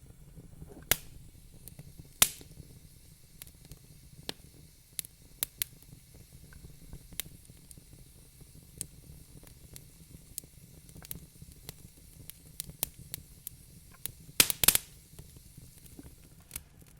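Wood fire crackling in a fireplace: irregular pops and snaps over a low, steady rumble, with a quick cluster of louder pops near the end.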